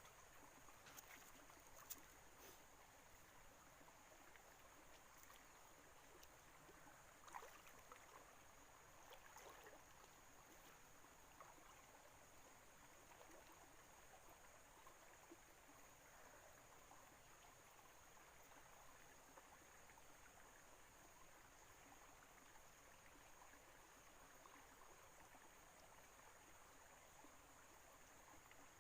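Near silence: faint outdoor ambience with a steady thin high-pitched tone and a few soft ticks in the first ten seconds.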